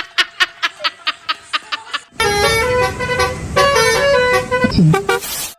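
Multi-tone telolet bus horn playing a tune of several notes that step from one pitch to the next. It comes in suddenly about two seconds in, after a fast, regular run of short clicks, about five a second.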